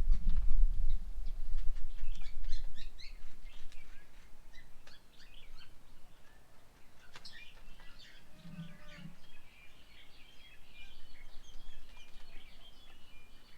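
Birds chirping and calling, with many short overlapping chirps and trills. A low rumble is loudest for the first few seconds and then fades.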